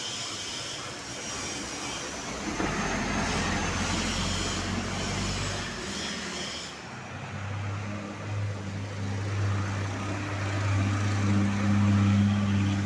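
Heavy road traffic: a vehicle passes with a wash of tyre and engine noise about three seconds in, then a large diesel engine's steady low hum sets in and grows louder toward the end as a heavy truck or bus comes close.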